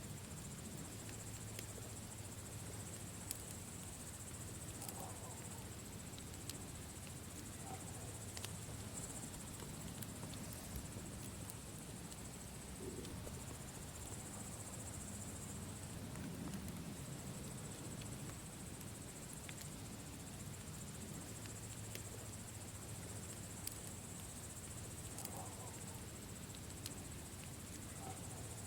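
Campfire burning: scattered sharp crackles and pops over a low rumble, with a steady high-pitched chirring throughout.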